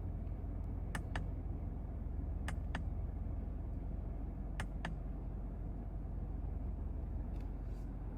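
Steady low road and engine rumble inside the cabin of a Mazda CX-5 with the naturally aspirated 2.5 e-SKYACTIV G four-cylinder under way. Three pairs of short sharp clicks come through in the first five seconds.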